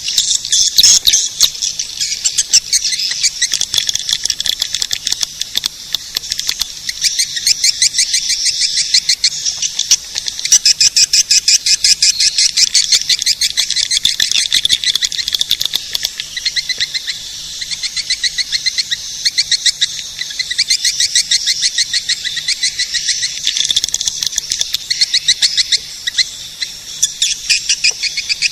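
A swiftlet caller recording: a dense, unbroken high-pitched twittering of many rapid chirps, made of swiftlet calls played to lure swiftlets into a nesting house.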